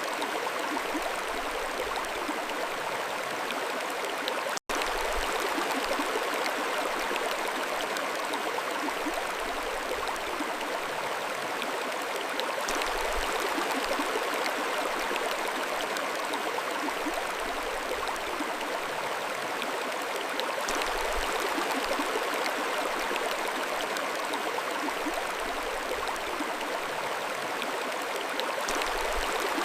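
Mountain stream flowing, a steady even rush of water, with a momentary dropout to silence about a sixth of the way in.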